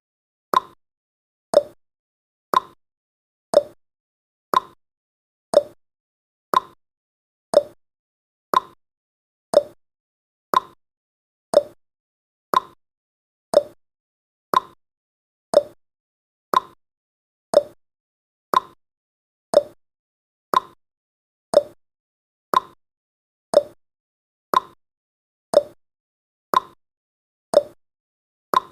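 Countdown timer's clock-tick sound effect: a short, sharp tick once every second, steady and evenly spaced, each tick dying away quickly.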